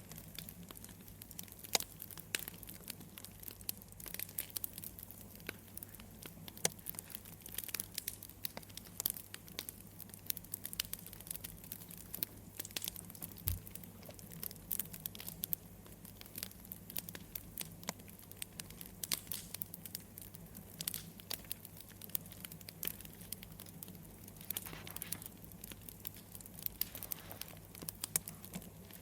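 Wood fire crackling: a steady scatter of small, irregular pops and snaps over a low, steady hum.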